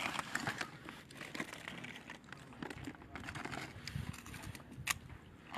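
Eating noises: crinkling and light crunching with scattered small clicks, and one sharper click near the end.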